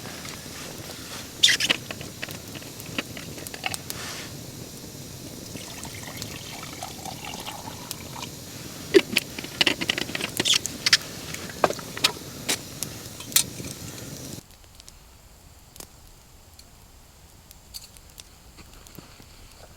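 Liquid being poured and trickling, with sharp clicks and knocks throughout. About two-thirds of the way through it cuts off suddenly, leaving a much quieter background with a few faint clicks.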